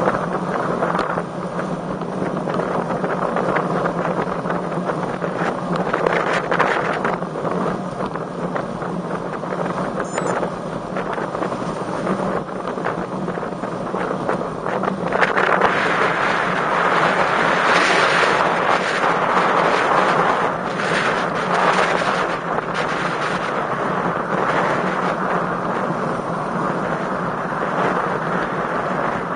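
Wind buffeting the microphone of a camera riding along on a road bike, a steady rushing noise over a low road hum, growing louder and harsher from about halfway through.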